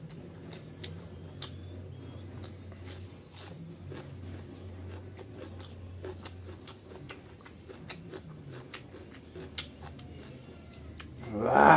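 Mouth chewing and lip smacking while eating rice and chicken curry: irregular wet clicks a few times a second over a steady low hum. Near the end comes one brief, loud vocal sound.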